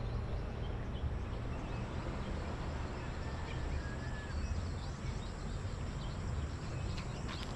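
Outdoor rural background with a steady low rumble and a few faint bird chirps about three to four seconds in.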